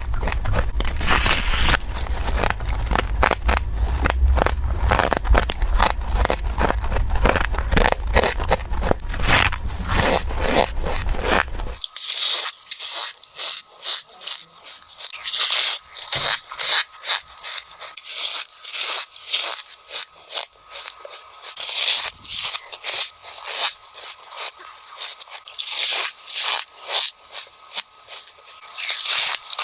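Freezer frost being bitten and chewed in quick succession, a dense crisp, squeaky crunching. About twelve seconds in, the low rumble underneath stops abruptly and the crunches go on as separate, sharper bites with short pauses between them.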